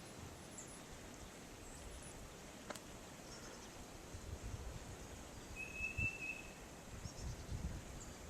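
Faint outdoor snowstorm ambience with scattered short, high bird chirps and one short clear bird note about six seconds in, over low irregular rumbles.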